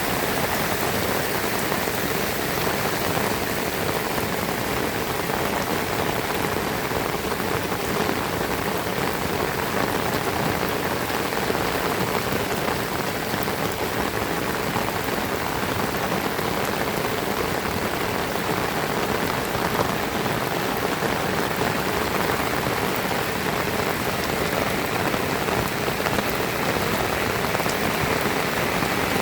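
Heavy rain falling steadily: a dense, even patter.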